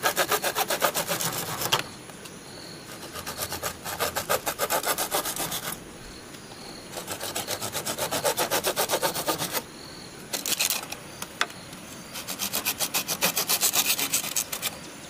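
Hand saw cutting bamboo in quick back-and-forth strokes, about five a second. It goes in five runs with short pauses between them.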